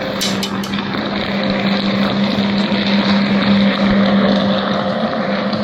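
Watercraft engine running at a steady pitch, its level swelling a little midway.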